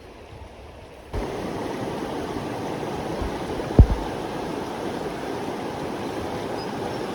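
Creek water running steadily, starting abruptly about a second in, with a single sharp thump near the middle.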